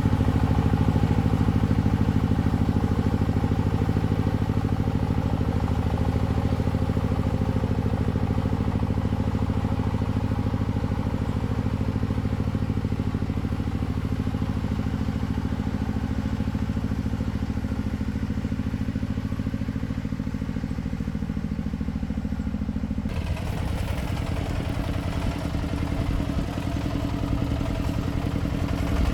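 Engine of a restored farm vehicle running steadily. About 23 seconds in the sound changes abruptly and turns rougher and more uneven.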